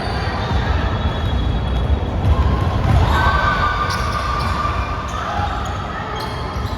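Basketball game in play in a gym: the ball bouncing on the court over the hall's steady echoing background noise, with a few drawn-out high tones about halfway through.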